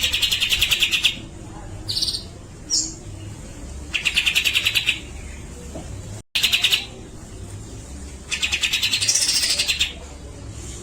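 Cucak jenggot (brown-cheeked bulbul) singing in harsh, rapid rattling bursts of about a second each, four in all, with a few short clear notes between them. The sound drops out for an instant just past halfway.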